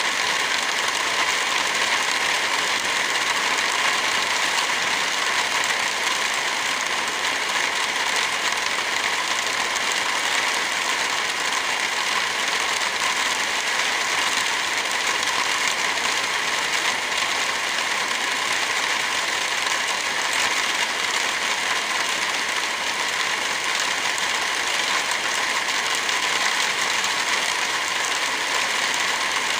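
Heavy rain falling in an unbroken, steady hiss, with no thunder.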